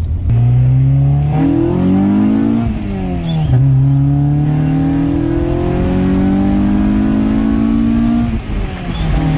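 Honda H23A 2.3-litre DOHC VTEC four-cylinder accelerating hard, heard from inside the car. The revs climb, drop at an upshift about three seconds in, then climb steadily for about five seconds before dropping again at another shift near the end.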